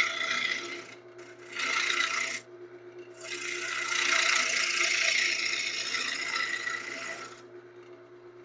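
Wood lathe running with a steady motor hum while a tool cuts into the spinning wood blank in three passes, the last about four seconds long, roughing the piece round.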